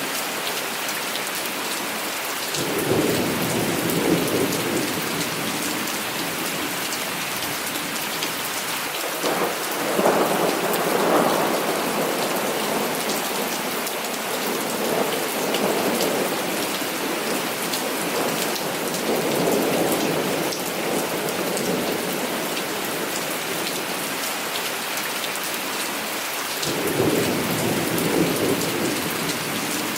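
Heavy rain falling steadily, with repeated rolls of thunder rumbling in and fading away about five times. The strongest roll comes about ten seconds in.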